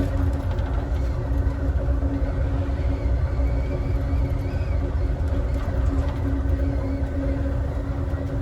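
Steady low rumble of a passenger train car running on the rails, heard from inside the car, with a constant hum over it.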